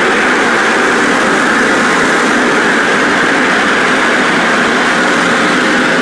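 Car wash exit air dryers blowing: a really loud, steady rush of air that does not change.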